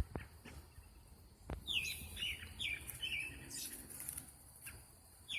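Songbirds chirping at dusk: a run of short, downward-sliding chirps starting around the middle, with a sharp click at the very start and another about a second and a half in.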